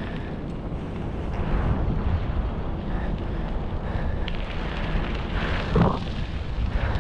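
Wind rumbling on a bicycle-mounted action camera's microphone while riding, with a loud, heavy breath near the end from a rider who is out of shape.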